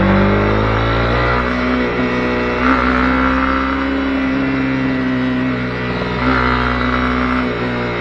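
Honda CB250R's single-cylinder engine running under way, its note stepping up and down a few times as the throttle and gears change.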